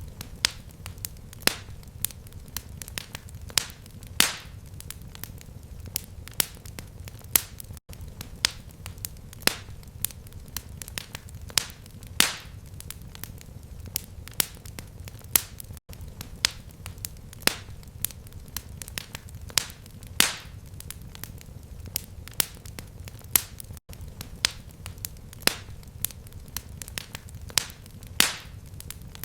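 Fireplace fire crackling: irregular sharp pops and snaps, several a second with some louder ones, over a steady low rumble of flame. The sound cuts out for an instant about every eight seconds, as at the seam of a looped recording.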